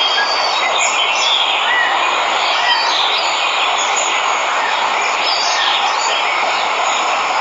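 Steady rushing of a waterfall, with birds chirping now and then over the water.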